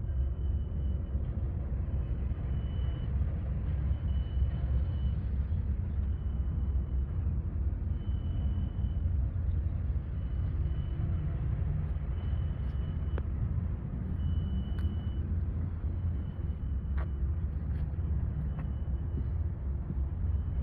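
Perkins six-cylinder diesel engine of an Olympian Cat GEP200-4 220 kVA generator set running steadily with a deep, even rumble.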